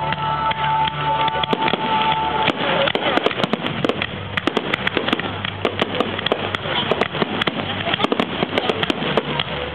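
Fireworks grand finale: a dense, rapid barrage of bangs and crackles starting about two and a half seconds in, with music playing underneath.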